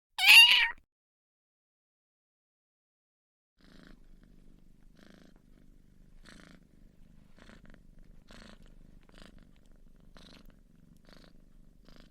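A kitten gives one short, loud meow, rising slightly in pitch. A few seconds later a cat starts purring quietly, the purr pulsing about once a second with each breath.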